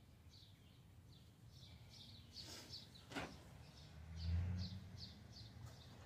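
Small birds chirping outside, a steady run of short high notes about two to three a second. A sharp click comes about three seconds in, and a short low rumble a second later is the loudest sound.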